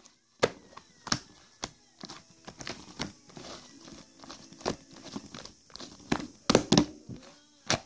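Irregular sharp clicks and knocks, like things being handled close to the microphone, with a loud cluster about six and a half seconds in and faint rustling between them.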